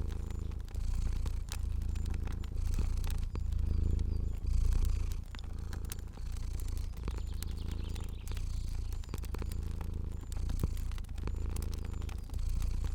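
Domestic cat purring steadily in a low rumble that swells and dips about once a second with its breathing, with scattered light crackles of a fire.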